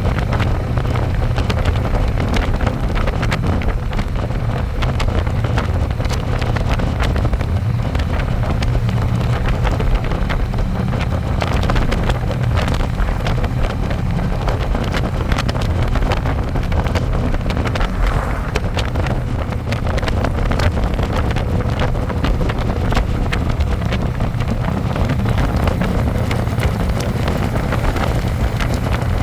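Harley-Davidson Electra Glide's V-twin engine running steadily while riding, with heavy wind noise on the microphone.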